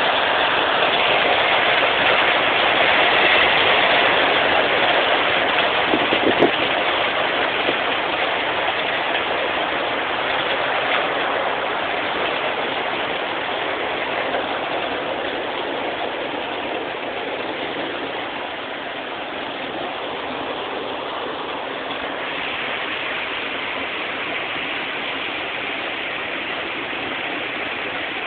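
Heavy hail pelting down: a dense, steady hiss of countless stones striking that eases gradually, with a couple of faint knocks about six seconds in.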